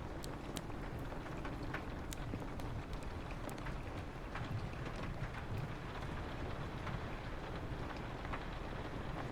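Rain on a window mixed with a crackling wood fire: a steady low hiss with sharp crackles scattered through it.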